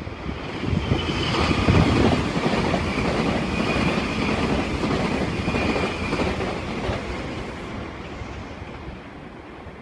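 Meitetsu electric train passing through the station, its wheels clattering over the rail joints in a quick run of clicks with a high whine above. It builds within the first two seconds and fades after about seven seconds.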